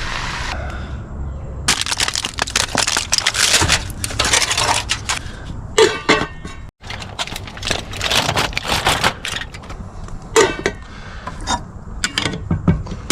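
Potatoes and stew beef frying in a hot pan over a campfire, a crackly sizzle in several stretches, with sharp clinks and scrapes of a metal utensil in the pan.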